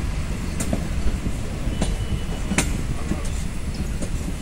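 Passenger train running along the track, heard from an open coach door: a steady low rumble of wheels on rail, with a few sharp metallic clacks as the wheels pass over rail joints.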